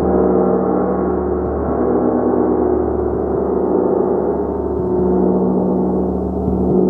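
A large gong played continuously with soft repeated strikes, its many overlapping tones sustaining in a dense, shimmering wash that swells and eases slightly.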